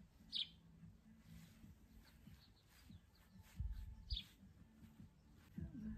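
Quiet outdoor ambience with two short, high bird chirps, about half a second in and again about four seconds in. A few low bumps come just before the second chirp.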